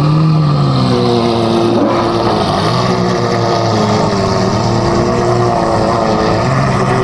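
A car engine running steadily at a low idle, its pitch drifting gently up and down.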